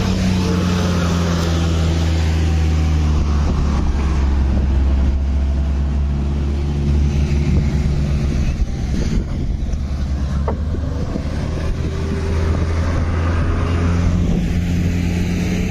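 SUV engines running close by as a Toyota Fortuner drives over loose sand, a steady low hum that shifts pitch a few times, with wind buffeting the microphone.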